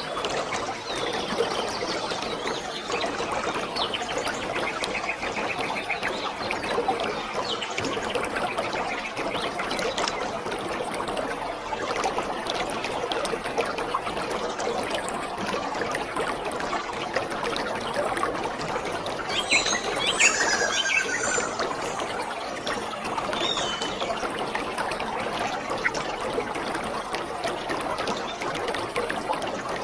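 Waterfall: a steady rush of falling water. A bird chirps a few times about two-thirds of the way through.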